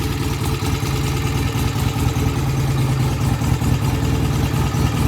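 BSA A65 Lightning's 650 cc parallel-twin engine idling steadily and evenly, its pilot jets freshly cleaned and idle speed and mixture set; it runs smoothly, a bike that came in hard to start now running well.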